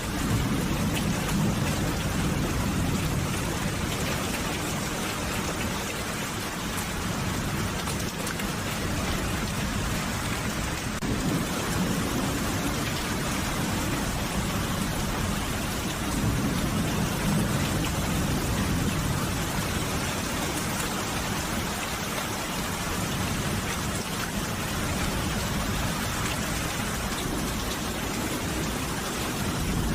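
Steady rain falling, an even hiss of drops, with a low rumble that swells near the start and again about halfway through.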